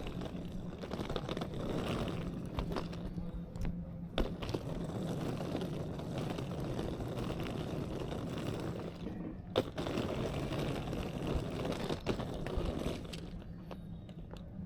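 City street ambience: a steady rumble of traffic with a low hum, and scattered clicks and knocks of wheels and footsteps on pavement, one sharp knock about two-thirds of the way in. It eases off near the end.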